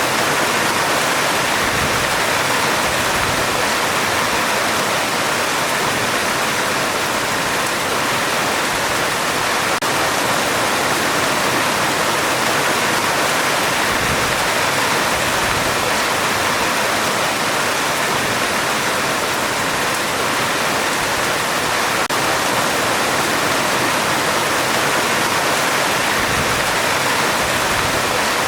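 Heavy rain falling steadily on a metal roof, a dense, even hiss with no let-up.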